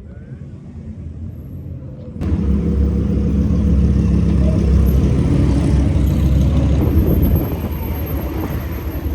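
A car engine running close by, a steady low rumble that builds and then steps up suddenly about two seconds in, staying loud before easing slightly near the end.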